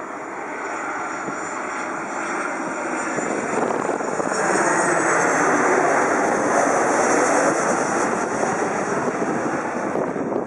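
Jet airliner passing low overhead: a jet-engine rush that grows to its loudest about halfway, with a high whine that drops slightly in pitch as it goes by.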